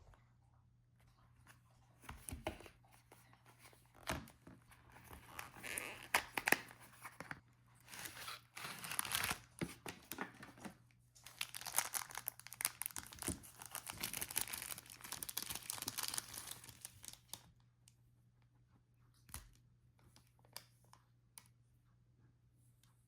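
Tearing and crinkling, in irregular stretches over about fifteen seconds, then a few scattered light clicks near the end.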